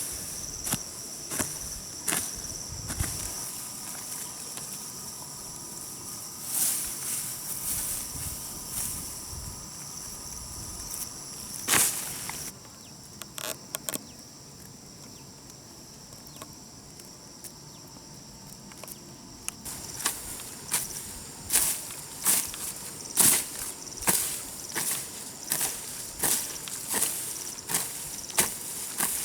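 Crickets or other insects chirring steadily at a high pitch. Against them come repeated sharp strikes of a hand tool, irregular at first and settling into a beat of about one a second in the last third.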